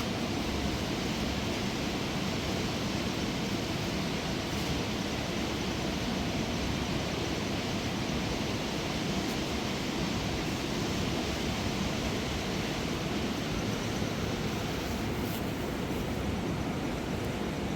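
Fast mountain river rushing over rocks, a steady, unbroken wash of water noise.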